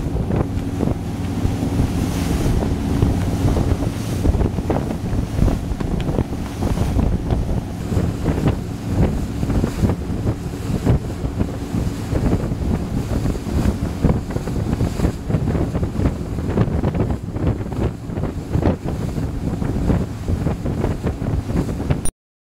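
Wind buffeting the microphone over the low drone of a Carver 3207 cabin cruiser's engines and the rush of water as the boat runs under way. The sound cuts off abruptly near the end.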